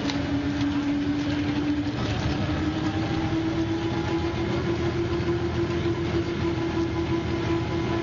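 Metrobus double-decker's engine and driveline running with a steady whine; the whine breaks off about two seconds in and comes back slightly higher, holding steady after that.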